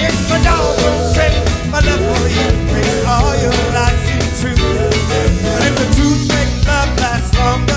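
A band playing upbeat music with a steady drum beat and a wavering lead melody line over it.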